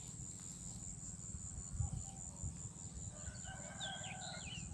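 A rooster crowing once, faintly, starting about three seconds in and lasting about a second, with small birds chirping around it.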